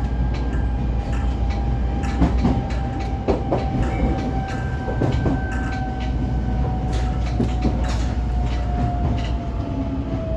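125-series electric railcar running on track: a steady low rumble with a whine that slowly falls in pitch towards the end, and scattered clicks of wheels over the rails.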